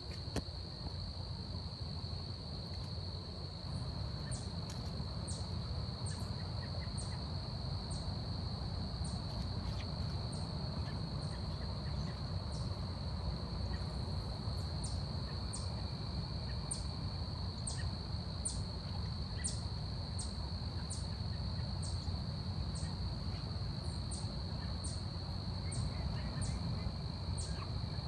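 Forest ambience: a steady, high, droning insect chorus, with short, high chirps repeating about once a second from a few seconds in, over a constant low rumble.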